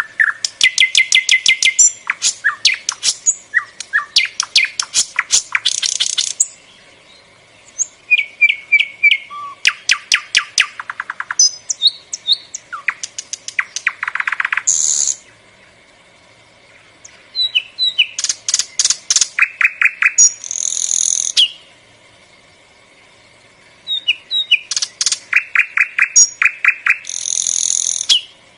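A songbird singing in bouts of fast, repeated chirps and trills, each bout a few seconds long, with short pauses between them.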